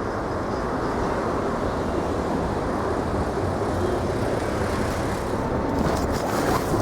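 Cabin noise inside an Isuzu Erga non-step city bus: steady engine and road noise, with a few short clicks near the end.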